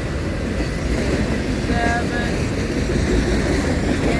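Loaded autorack freight cars rolling past on the rails: a steady, continuous rumble of steel wheels on track.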